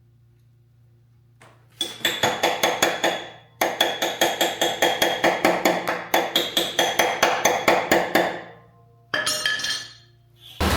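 Rapid ringing strikes on metal, about six a second, in two long runs and a short third one, each run fading out at its end.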